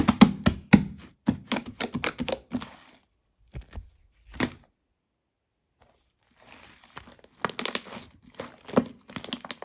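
Shaving-foam slime squished and pressed by hand, giving quick runs of crackling, popping clicks. There is a pause in the middle, and the pops start again about seven seconds in.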